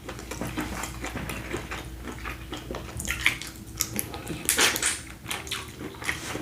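Wet, crackly sounds of a sauce-covered seafood boil of large prawns being handled and eaten, with many scattered clicks and a louder burst of crackling about four and a half seconds in.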